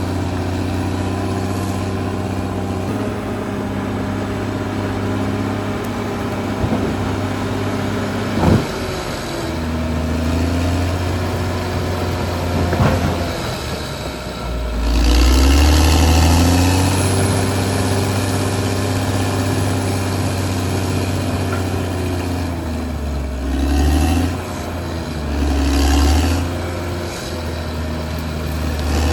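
Caterpillar D6R XL bulldozer's diesel engine running steadily under load. It revs up and pitches up around the middle and twice more near the end, with two sharp clanks about a third of the way in.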